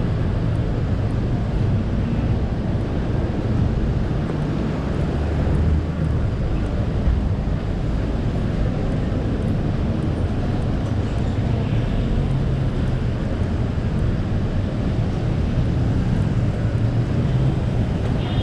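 Steady traffic rumble on a busy city road, with engines running continuously and no single vehicle standing out.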